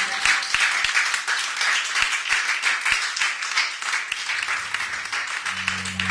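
Applause from a small group of people, with separate hand claps heard through it. Near the end a steady low hum comes in under the clapping.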